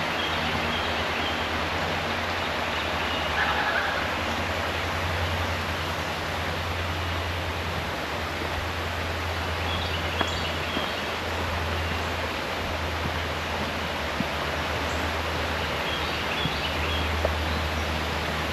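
Steady rush of creek water, with a few faint high bird chirps about halfway through and again near the end.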